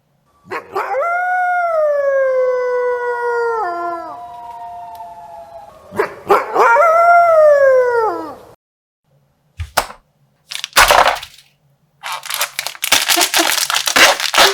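A wolf howling twice: a long howl sliding slowly down in pitch, then a shorter howl that rises and falls. In the last few seconds, plastic crinkling and rustling as a bag is handled.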